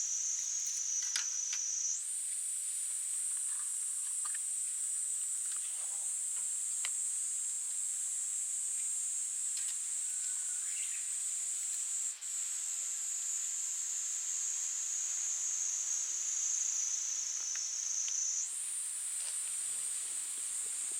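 Steady high-pitched insect chorus shrilling continuously, its pitch stepping up about two seconds in and again near the end, with a few faint clicks from camp handling.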